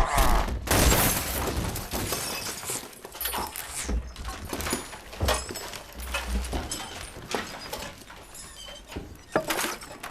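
Film sound effects of a shattering crash about half a second in, followed by a string of separate impacts and clatter of breaking debris.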